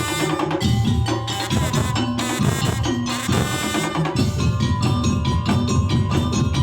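Indonesian regional music led by percussion: drums and struck wooden or metal keyed instruments in a steady, busy rhythm over a low melodic line.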